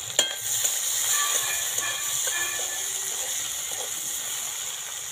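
Sliced onion, tomato and green chilli sizzling in hot oil in a large wok, a steady hiss. A spatula knocks once sharply against the pan near the start, with light scraping as it stirs.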